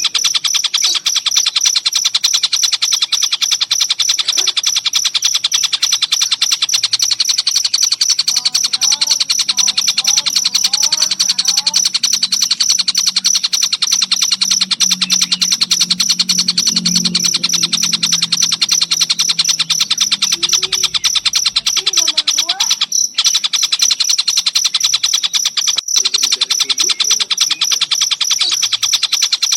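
Crickets trilling in a fast, even pulse without a break, with a few short bird calls over them now and then.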